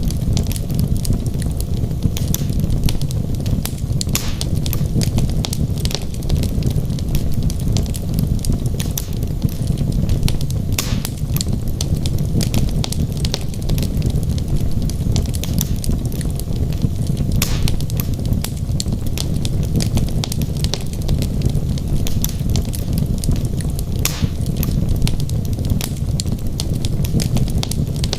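Wood logs burning in a fireplace: a steady low rumble of the flames with dense, fast crackling and a few sharper pops.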